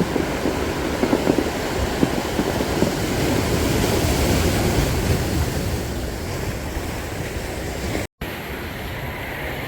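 Sea waves washing on the shore, with wind rumbling on the microphone. The sound breaks off for an instant just after eight seconds in and resumes a little duller.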